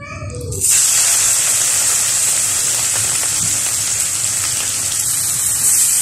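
Grated pumpkin frying in hot ghee in a pan: a loud, steady sizzle that starts suddenly just over half a second in.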